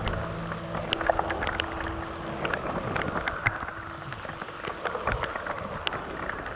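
Steady rush of water and rain noise, with scattered sharp clicks and knocks through it.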